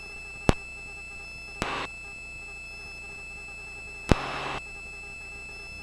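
Helicopter intercom audio: a steady high-pitched whine over a low hum, broken three times by a sharp click, twice followed by a short burst of hiss as a headset microphone keys open and shuts.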